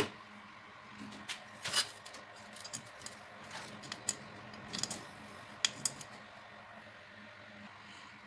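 Irregular sharp metallic clicks and clinks, like hand tools and small metal parts being handled, over a faint steady hum.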